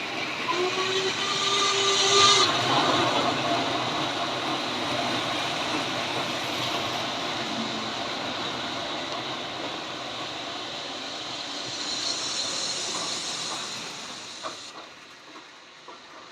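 Recorded steam locomotive sounds: a two-note steam whistle blows briefly about half a second in, over continuous hissing and running noise. A burst of steam hiss comes around twelve seconds in, then the sound drops away near the end.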